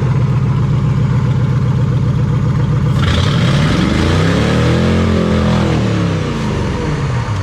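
A car engine running steadily while a can of beer is fed into its intake. About three seconds in it is revved up, and then it falls back down to idle.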